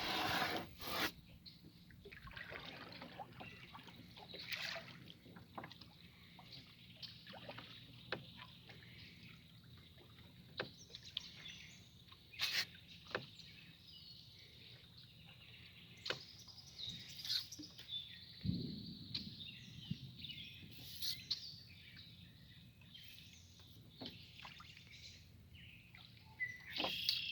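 Birds calling outdoors over faint ambient noise, with scattered light clicks and knocks throughout and a short louder knock near the end.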